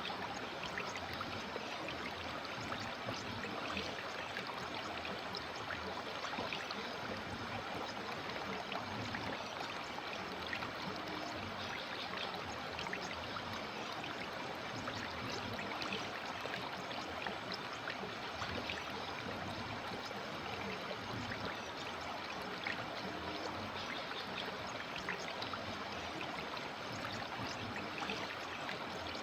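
River water flowing steadily over rocks, a continuous rushing with many small splashes and trickles running through it.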